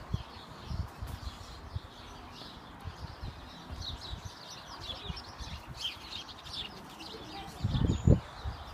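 Small birds chirping and calling, many short high notes, busiest around the middle. A short burst of low rumble near the end is the loudest thing.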